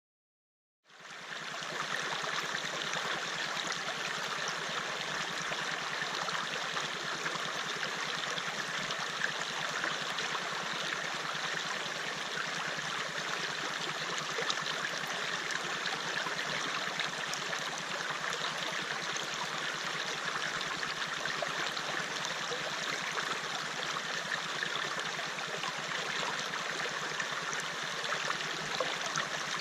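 A river flowing: steady, even rushing of water, fading in about a second in.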